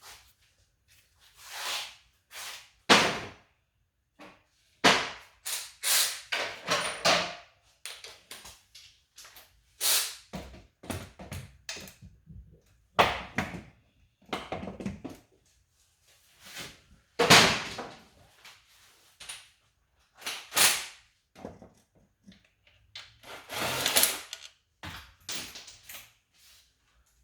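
Irregular clanks, clicks and rattles of hand tools and loose metal engine parts being handled and set down while the timing-chain end of a Toyota 2AZ engine is stripped, with no steady rhythm.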